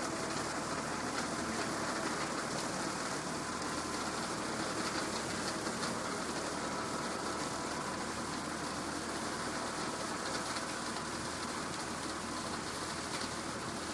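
A tractor engine running steadily under a constant hiss.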